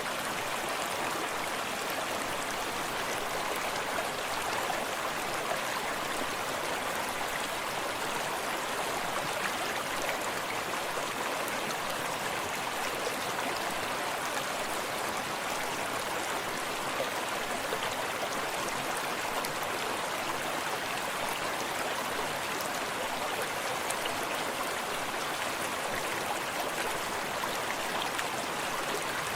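Forest stream running steadily, water splashing and trickling over rocks with a continuous rushing sound.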